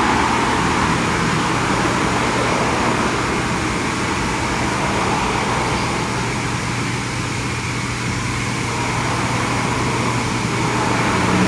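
Steady vehicle noise: a continuous rush with a low hum underneath.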